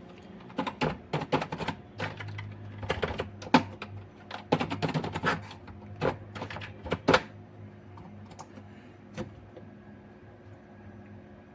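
Rapid, irregular clicking and tapping of hard objects for several seconds, followed by a couple of isolated clicks, over a low steady hum.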